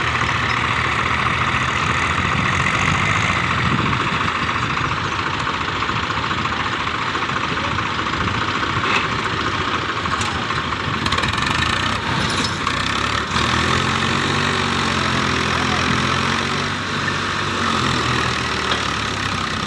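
Tractor diesel engines running steadily under load; from about two-thirds of the way in, their pitch starts to rise and fall.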